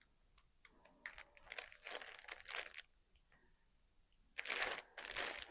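Packaging on a slow stitch fabric pack crinkling and rustling as it is handled, in two spells with a pause between, the second starting near the end.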